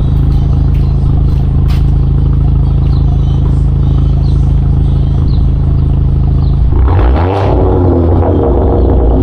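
Hyundai Elantra N Line's turbocharged four-cylinder engine through a straight-pipe exhaust, idling steadily, then revved near the end, its pitch climbing and falling back.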